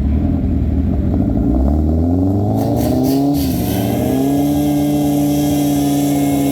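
Motorcycle engine accelerating: a low rumble that rises in pitch from about two seconds in, dips briefly a little past three seconds, then climbs again and holds a steady, high running note.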